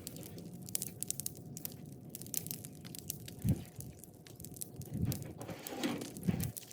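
Bonfire of brush and branches crackling, with sharp pops scattered throughout and a few dull low thumps in the second half.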